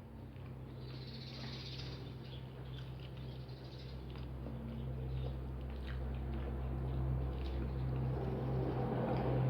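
Mouth sounds of someone eating: soft chewing and lip smacking with faint clicks. Beneath them runs a steady low hum that grows louder toward the end.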